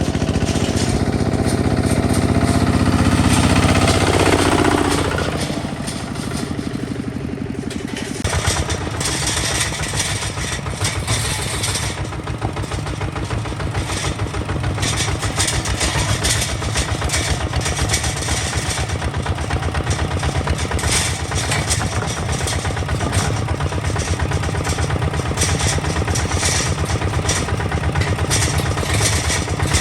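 Kubota ZT155 DI single-cylinder diesel engine of a hand tractor running loud. Its pitch falls about four to five seconds in, then it settles into a steady rapid chugging.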